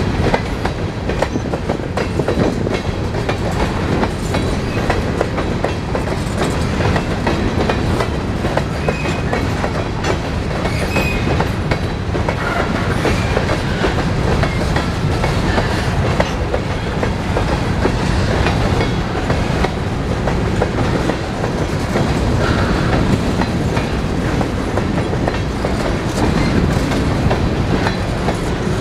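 Freight train of empty covered hopper cars rolling past at steady speed. There is a continuous rumble and rattle, and the wheels click rapidly over the rail joints. Now and then a faint, brief squeal is heard.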